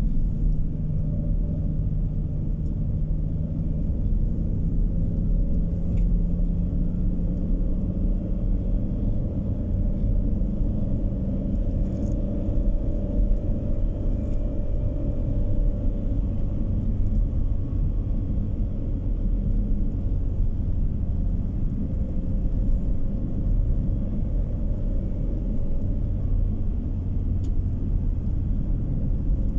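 Steady low rumble of a car driving, heard from inside the cabin: road and tyre noise with a faint engine hum that drifts slowly in pitch.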